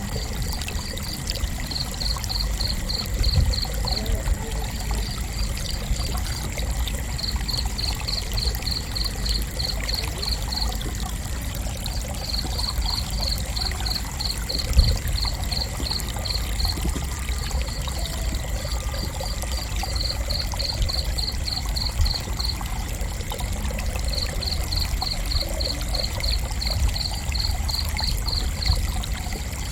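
A cricket chirping in runs of short, high, evenly spaced chirps, about four a second, each run lasting a few seconds with brief pauses between. Behind it are a steady high-pitched tone and a low rumbling noise, with one soft thump about 15 seconds in.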